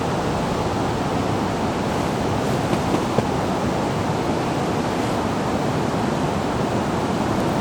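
Steady rush of flowing river water and a waterfall, an even, full noise, with two faint ticks about three seconds in.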